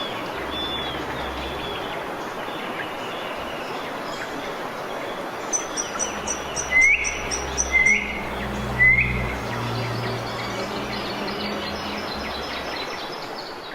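Bird calls over a steady background hiss: a quick run of very high, short notes, then three louder up-swung calls about a second apart, followed by fainter high chirps.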